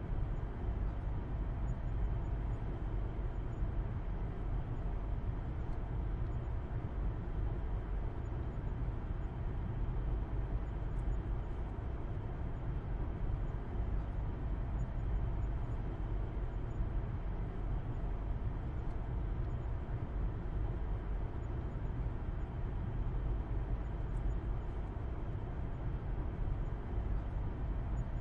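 Steady low rumble of a car driving at constant speed, heard from inside: engine hum and road noise with no change in pitch.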